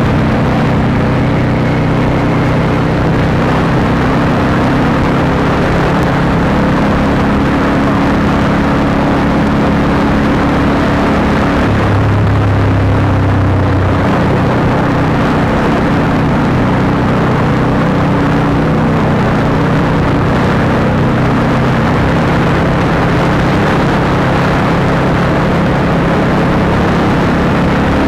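Honda CBR150R's single-cylinder engine running through an Akrapovic aftermarket exhaust on the move, a steady exhaust note over wind and road rush. Near the middle the note drops into a lower, stronger hum for about two seconds, then settles back.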